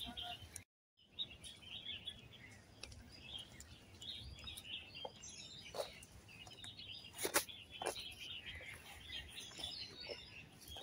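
Small birds chirping in the shoreside trees, with faint outdoor noise underneath and a few sharp clicks or knocks, the loudest about two-thirds of the way through. The sound drops out completely for a moment about a second in.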